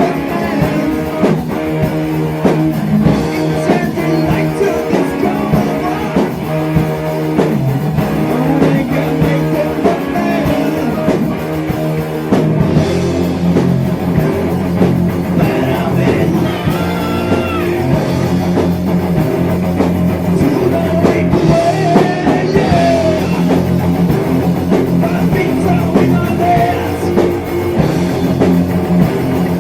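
Heavy metal band playing rock music: electric guitars, bass and drum kit, with singing. About twelve seconds in, the music shifts to lower, fuller notes.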